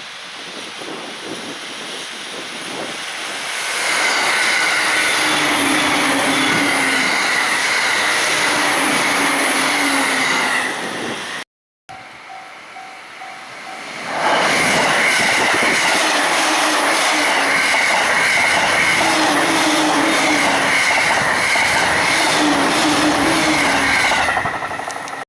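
Two separate high-speed passes of Joban Line trains through a level crossing. Each one builds over a second or two into a loud, sustained rush of wheels on rail with rhythmic clatter and lasts several seconds. Between them, a level-crossing warning bell rings in an even repeating beat.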